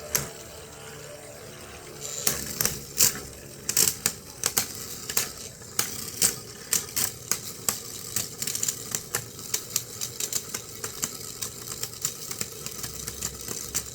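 Plastic Beyblade spinning tops, one of them a Gyro Engine Gear combo, whirring in a stadium. From about two seconds in there is a run of irregular sharp clicks and clatters as the tops knock and rattle.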